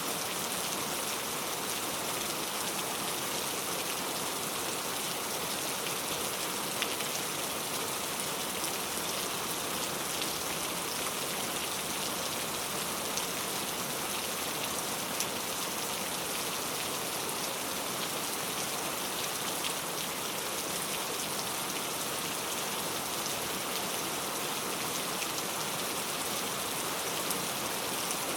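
Steady rain falling and pattering on a surface, an even hiss with occasional distinct drop ticks.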